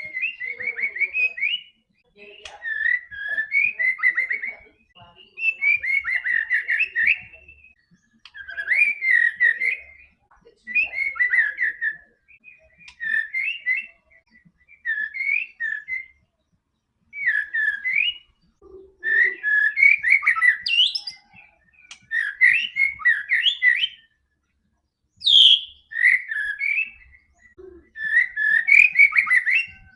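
White-rumped shama (murai batu) in full song: a run of rapid, varied whistled phrases, each lasting one to two seconds, with short pauses between them.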